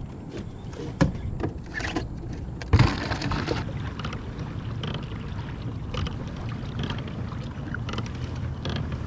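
Handling noise aboard a sit-on-top fishing kayak: a few sharp knocks against the plastic hull, the loudest about three seconds in, over a steady low rumble.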